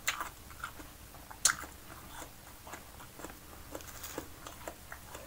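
A person biting and chewing soft food close to the microphone, with scattered short wet mouth clicks, one louder click about a second and a half in.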